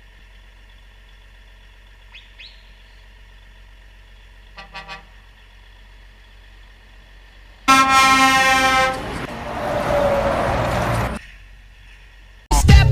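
Low background hum, then a loud blast on a truck's horn lasting about a second, followed by about two seconds of rushing noise that cuts off suddenly.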